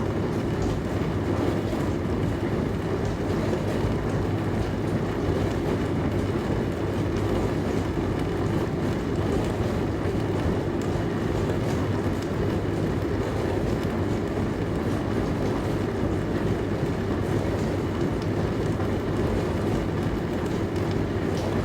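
Dishwasher running: a steady, even low hum and churning wash noise, with no break or change.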